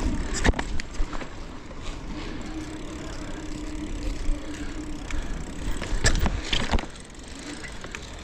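Mountain bike being ridden, heard from a camera on the move: a steady low rumble of tyres and wind, with a few sharp knocks and rattles about half a second in and again around six seconds in.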